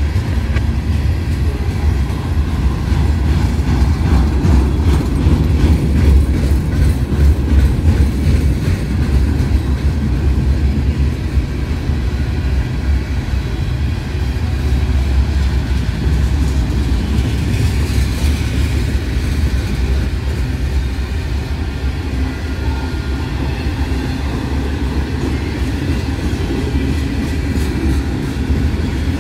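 A train rolling past close by: a steady, loud low rumble of rail cars, with wheels clicking over the rail joints.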